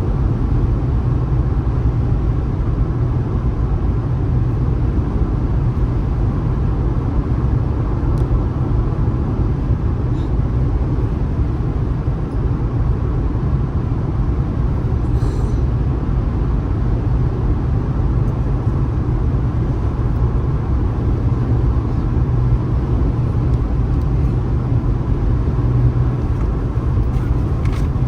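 Steady low rumble of a car driving at speed on a highway: road and tyre noise with wind, heard from the moving car.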